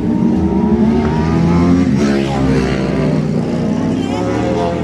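Classic motorcycle engines running and revving, their pitch rising and falling, with a sharp sweep in pitch about two seconds in.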